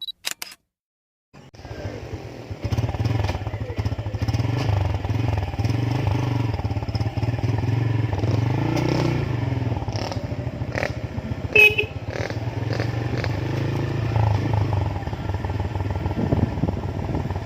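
Motorcycle engine running steadily on the move, with wind noise, starting about a second and a half in. One brief, sharp ringing clink comes about two-thirds of the way through.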